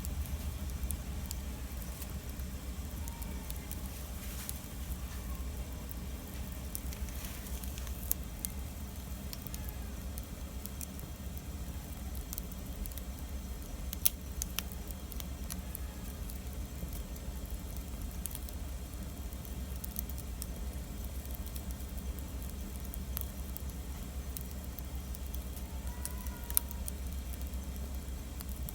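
Campfire of burning wood crackling steadily, with scattered sharp pops, the loudest about 14 seconds in and another near the end.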